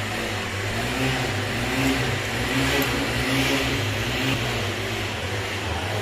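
A vehicle engine running steadily with a low hum, its pitch wavering a little.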